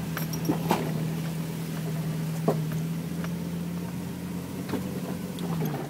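A four-wheel-drive vehicle's engine pulling steadily uphill in four-low first gear, a steady hum heard from inside the cabin, with scattered sharp clicks and knocks. The engine note drops away near the end.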